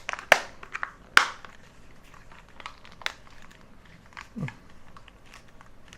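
Hard plastic clicks and taps as the pried-open casing of a swollen power bank is pressed back together by hand: two sharp clicks in the first second and a half, then lighter ticks and handling rustle.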